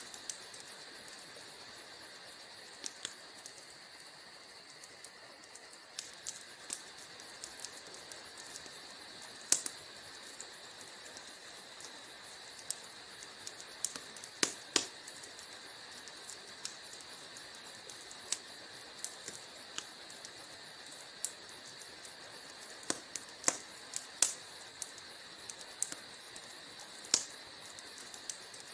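Wood fire crackling in a fireplace: a steady hiss with irregular sharp pops and snaps, a few of them louder than the rest.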